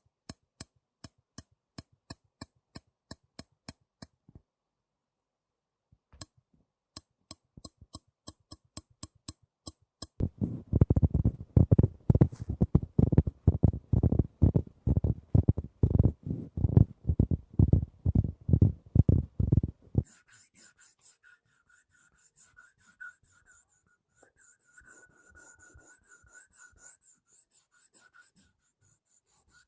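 A sequence of close-miked ASMR triggers. First come light, evenly spaced taps at about two a second, then faster tapping, then loud rapid tapping or scratching strokes. About twenty seconds in it changes to a faint, soft high hiss.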